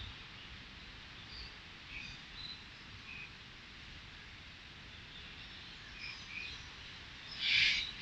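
Birds calling: scattered short, high chirps, then two louder, short calls in quick succession right at the end.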